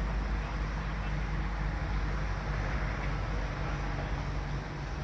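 Steady outdoor background noise: a low rumble with a hiss above it.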